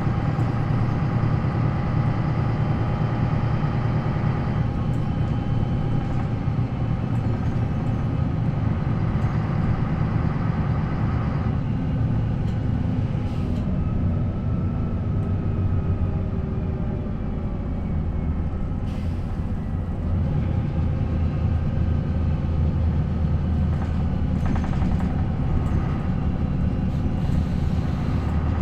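Diesel engine of an MAN NL 263 city bus (MAN D28 engine with ZF Ecomat five-speed automatic) running steadily. Its note shifts a few times and eases briefly near the middle before picking up again.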